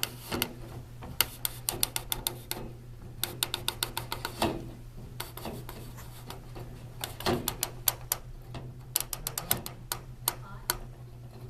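Irregular sharp clicks and taps, some single and some in quick runs of several, over a steady low hum: hand work on the wing spar as the anti-buckling biscuit is fitted.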